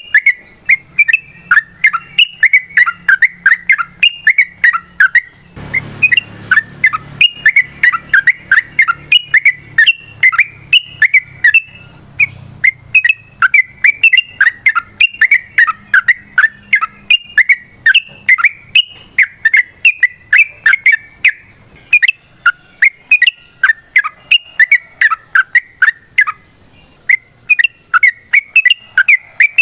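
Yellow-vented bulbul (trucukan) singing a long, unbroken run of fast chattering notes, several a second, the 'ropel' song that bird keepers play as a lure and fighting call to get other bulbuls to answer.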